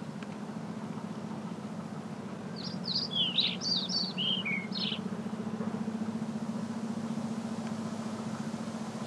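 A songbird sings one short phrase of quick, high chirps lasting about two and a half seconds, starting a little over two seconds in. Under it runs a steady low hum with faint hiss.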